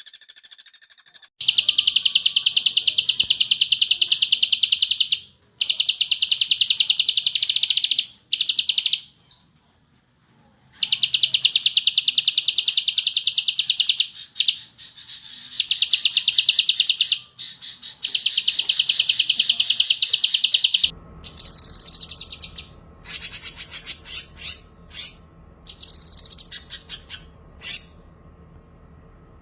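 Songbird singing long, very rapid trills lasting several seconds each, with short breaks between them. About 21 seconds in, the recording changes to shorter, varied chirps and whistles over a steady background hum.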